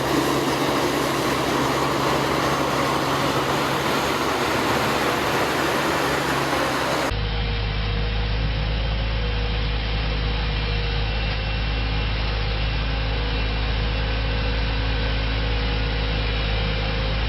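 Heavy farm machinery engines running steadily. About seven seconds in, the sound cuts abruptly to another machine with a deep, steady drone.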